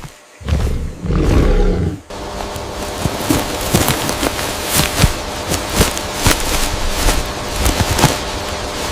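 A large animal's deep roar or growl, cut off abruptly about two seconds in. It gives way to a steady hiss full of irregular sharp snaps and clicks.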